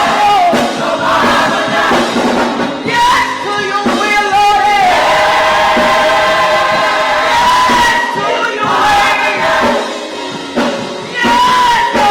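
A choir singing gospel music, with held notes that bend in pitch and a brief drop in level near the end.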